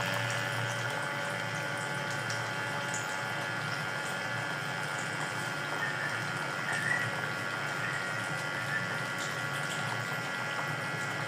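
A steady mechanical hum made up of several fixed tones, with a few faint short high chirps about six to seven seconds in.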